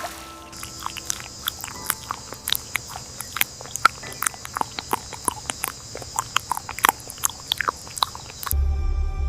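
Steady high-pitched insect chorus, like crickets trilling, with many irregular sharp clicks and short chirps over it. A low music drone begins near the end.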